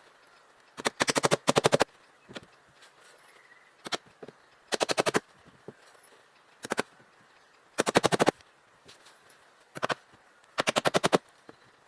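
Short bursts of rapid knocking, each about half a second of quick, even strikes, repeating every second or two with quiet between them.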